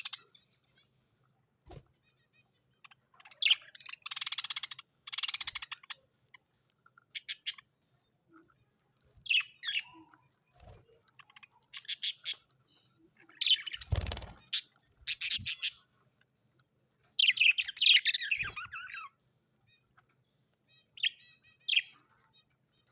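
Birds calling in short, rough bursts of chirps and chatter, about a dozen bursts with pauses between them, the loudest about two-thirds of the way through.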